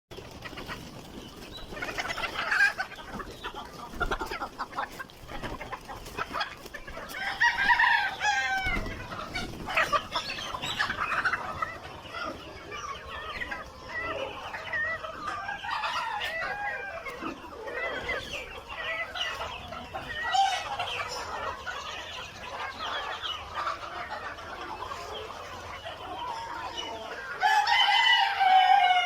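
Chickens clucking, with a rooster crowing about eight seconds in and again, loudest, near the end.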